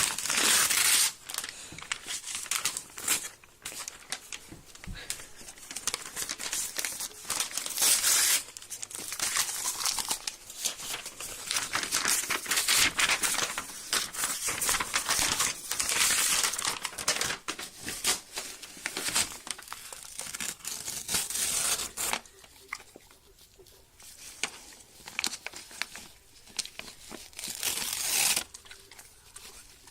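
Paper crinkling and tearing as a dog chews and rips it, in irregular bursts. It goes softer about two-thirds of the way through, with one more loud burst near the end.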